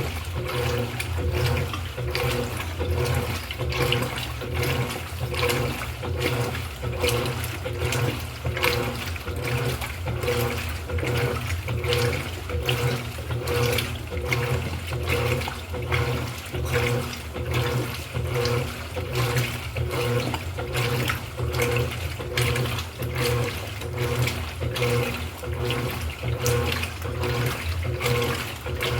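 Electrolux LED14 washing machine running a wash cycle: a motor hum with water sloshing in the tub, pulsing in a steady, even rhythm.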